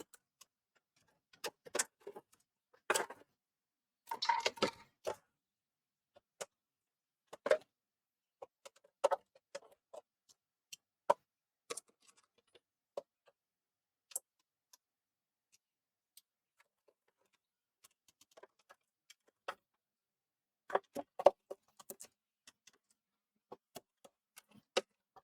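Scattered clicks and light taps of small plastic and metal parts being handled as a PlayStation 4 Slim console is taken apart, with a cluster of rattles about four seconds in and another near the end.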